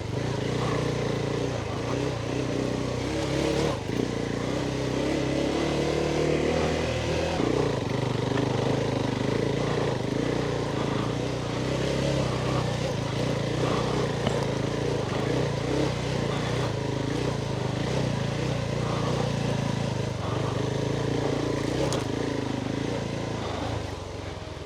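Adventure motorcycle engine running at low speed on a rough off-road trail, its revs stepping up and down with the throttle, with a couple of brief knocks from the bike over the ground.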